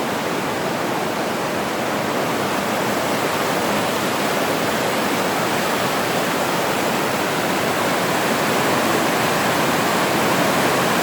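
Waterfall on a creek, falling water rushing steadily and growing gradually louder.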